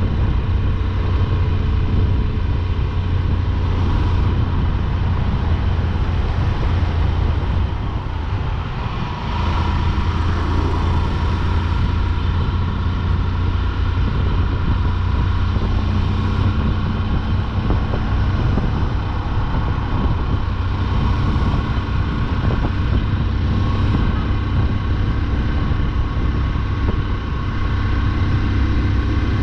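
Motorcycle engine running at a steady cruising speed, with wind and road noise. The engine eases off briefly about eight seconds in, then picks up again.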